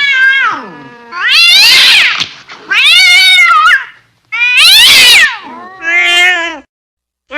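Angry domestic cat yowling in a series of loud, drawn-out calls, each about a second long and wavering in pitch, five in all with short gaps between them.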